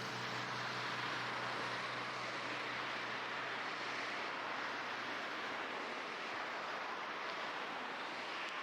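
Steady rushing of a mountain river's flowing water, even and unbroken.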